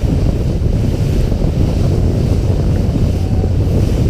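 Wind buffeting the microphone in a steady low rumble, over the wash of the sea around a small boat.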